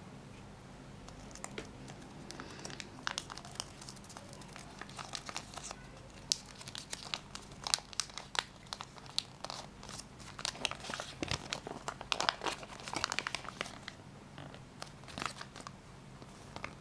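Plastic Kinder Joy packaging crinkling and rustling in the hands as it is torn open and unwrapped, in irregular bursts that are busiest in the second half.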